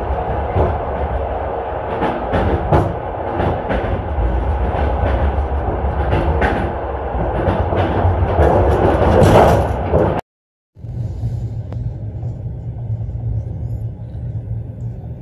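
Passenger train running on rails, heard from inside the carriage: a steady rumble with irregular clicks of the wheels over the rail joints. A little after ten seconds the sound cuts out for half a second, then comes back as a quieter, smoother low rumble.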